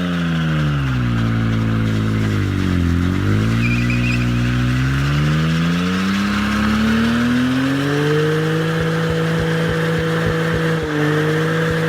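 BMW E60 M5's V10 engine through a sport exhaust. The revs drop to a low point about three seconds in, climb back over the next few seconds, and hold steady and high from about eight seconds on, as in a burnout.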